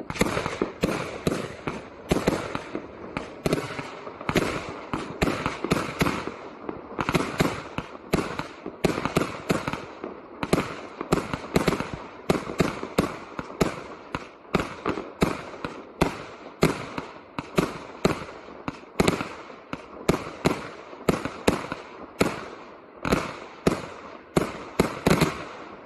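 A 1-inch, 49-shot firework cake firing shot after shot, about two sharp reports a second in a steady run, stopping near the end.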